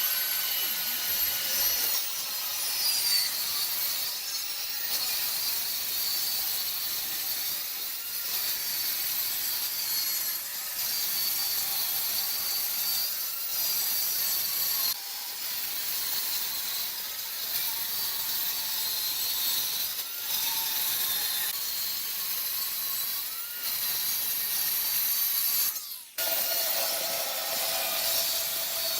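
Power saw cutting wood, running continuously with a high whine, with one brief break near the end.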